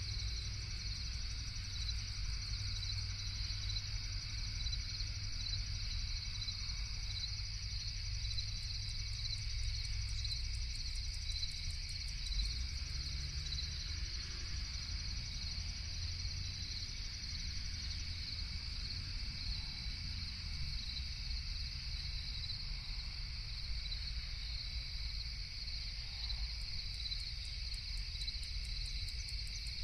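Night chorus of crickets trilling steadily in high, finely pulsing tones, over a low steady rumble.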